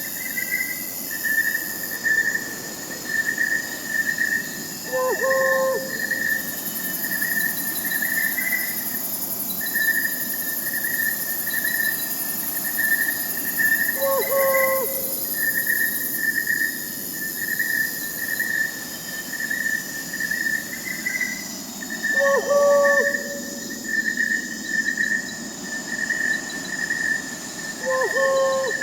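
Crickets chirping in a steady pulsing chorus, with an owl hooting four times, several seconds apart.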